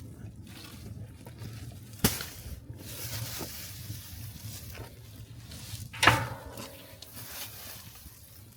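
Fallen-leaf fire burning in an oil drum, crackling steadily, with two sharp knocks about two and six seconds in, the second ringing briefly.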